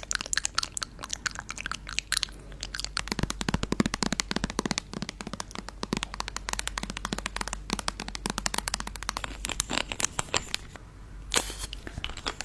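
Stones rubbed and clicked against each other close to the microphone: a dense run of small clicks and crackles, thickest in the middle, with a short pause and a few sharp clicks near the end.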